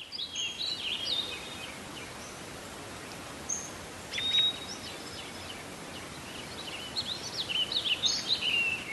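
Small birds chirping and twittering over a steady, even background hiss, with clusters of quick chirps at the start and again near the end and a single clear whistled note about four seconds in.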